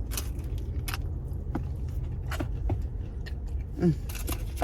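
Biting and chewing a hard, overcooked thin-crust Pizza Hut melt: a string of short crisp crunches, over a steady low hum, with a brief voiced sound near the end.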